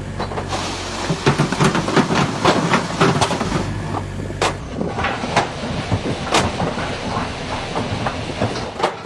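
Road construction machinery running with a steady low hum, under many irregular sharp clacks and knocks.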